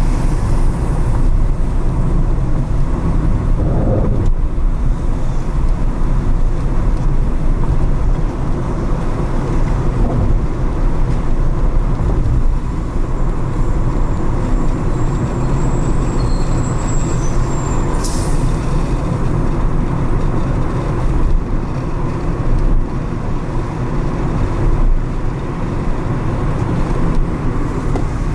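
Steady low rumble of a car driving through city traffic, with a brief sharp click about eighteen seconds in.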